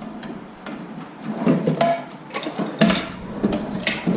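Irregular metallic clicks and clanks from hands-on work on a bicycle, a few sharper knocks among them in the second half.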